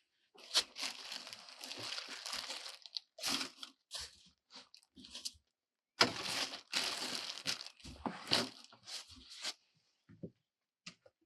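Crinkling, crunching and tearing handling noise in irregular bursts, with a long stretch near the start and another from about six seconds in.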